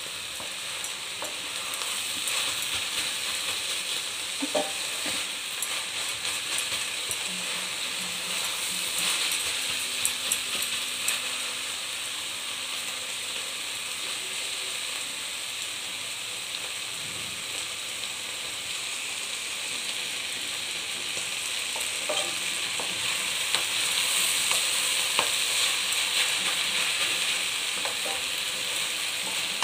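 Shredded cabbage and potato sizzling as they fry in a pan over a gas flame turned up to full. A spatula stirs and now and then scrapes or taps against the pan. The sizzle grows louder a few seconds before the end.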